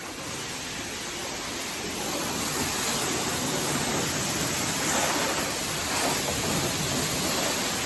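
High-pressure wand at a self-serve car wash spraying soap onto a vehicle: a steady, even hiss of water spray, a little louder from about two seconds in.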